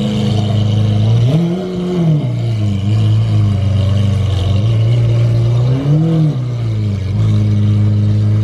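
Car engine idling with two short throttle blips, one about a second and a half in and one about six seconds in, each a quick rise and fall in revs.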